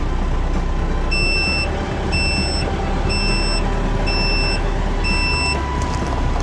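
Backup alarm on a reversing vehicle: five short, high-pitched beeps about once a second, over a steady low rumble.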